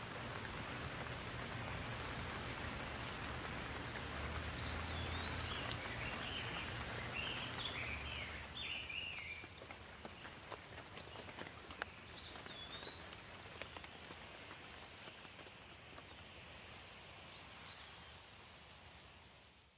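Steady rain falling, with birds chirping over it in short rising-and-falling calls, a busy run of them about four to nine seconds in and a few more later. The sound fades out right at the end.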